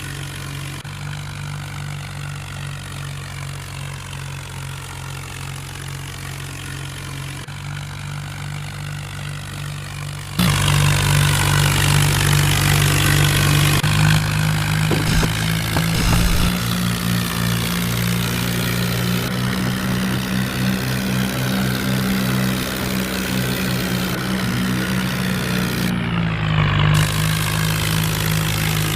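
Diesel tractor engine running steadily. About ten seconds in it suddenly gets louder, and its pitch then shifts up and down several times.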